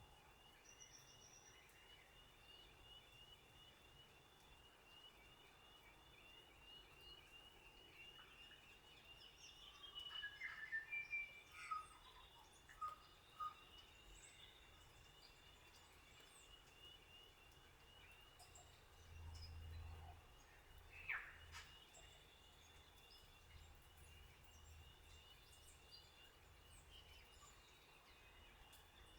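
Quiet outdoor ambience: a steady, evenly pulsing high trill runs throughout over a faint even hiss, while birds give short sweeping calls now and then, in a cluster about a third of the way in and once more about two-thirds in.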